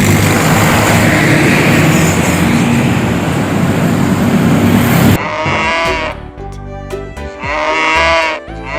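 A loud, even rushing noise for about five seconds, then it cuts off and goat bleats sound over music, several arching calls in a row.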